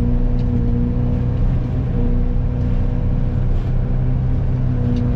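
Excavator engine running at a steady speed, a constant low hum with a steady pitch.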